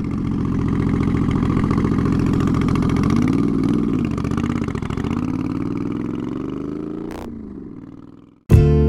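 Twin-turbocharged Moto Guzzi V50 III V-twin engine running, its pitch dipping and rising a few times midway, then fading away. Guitar music starts abruptly near the end.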